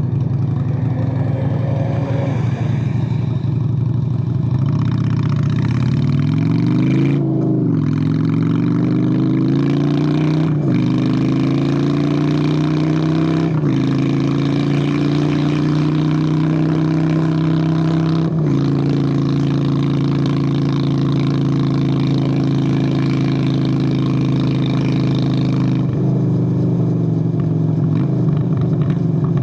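Honda Shadow VLX 600 V-twin motorcycle engine idling, then pulling away and accelerating up through the gears, with a brief dip in pitch at each upshift. It then cruises steadily and eases off the throttle near the end.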